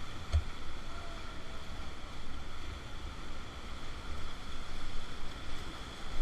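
Steady rush of river water during whitewater rafting, with wind rumbling on the microphone and a single knock about half a second in.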